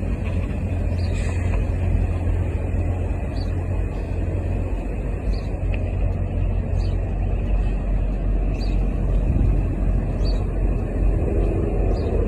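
1941 Studebaker 2-door's engine running, a steady low rumble, with a faint high chirp repeating every couple of seconds.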